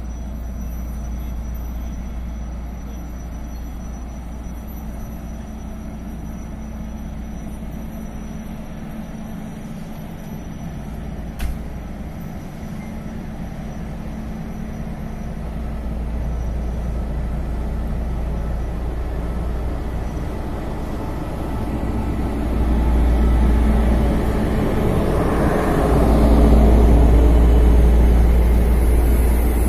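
Adtranz class 220 diesel locomotive hauling a freight train of empty ballast hopper wagons, approaching with a steady low rumble and a faint steady tone. It grows louder over the last third and passes close by near the end, with the wagons starting to roll past. A single sharp click is heard about a third of the way in.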